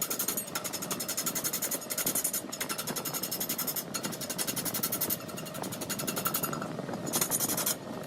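Wood lathe turning, with a tool cutting the spinning wood in a fast, even chatter of many strikes a second. The cut briefly lets up several times.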